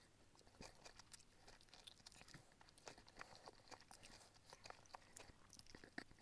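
Faint chewing of fried chicken: scattered small crunches and mouth clicks, soft and irregular.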